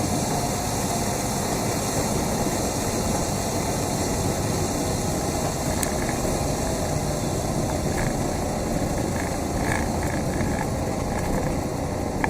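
Cessna 172's engine and propeller running steadily in flight, a constant drone.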